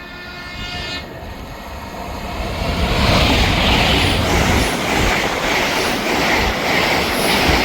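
LNER Class 800 Azuma train passing through a station at speed without stopping: a rumble that builds over the first few seconds and then stays loud, with regular wheel clacks about twice a second.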